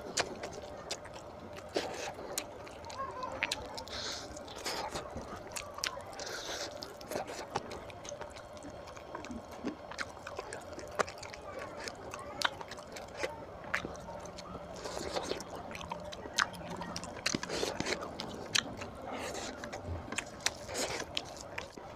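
A man chewing oily mutton boti curry (goat intestine) and rice eaten by hand, with many sharp, wet mouth clicks and squelches scattered throughout.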